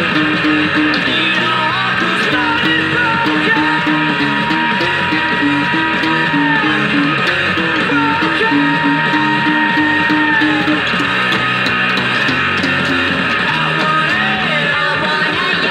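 Recorded rock song playing loud: driving electric guitars and bass under long held notes, with some singing.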